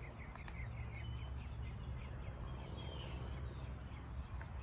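A bird chirping in quick runs of short repeated notes over a steady low rumble of background noise, with a couple of faint clicks.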